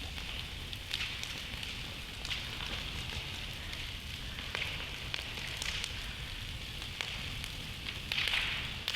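Wood campfire burning, a steady hiss broken by scattered sharp crackles and pops.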